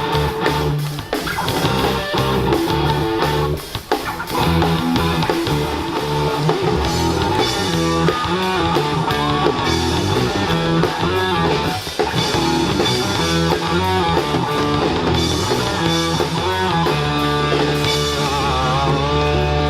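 A live rock band playing: electric guitar and bass over a drum kit, with sustained chords ringing out near the end.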